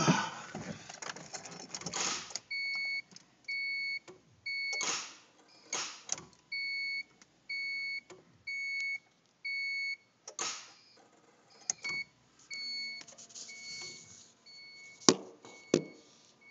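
A 1990 Honda CRX HF that won't start: short electronic warning beeps repeat about every two-thirds of a second, with sharp clicks in between and two loud clicks near the end. The clicking instead of cranking, with the battery draining, is what the owner suspects is a faulty starter.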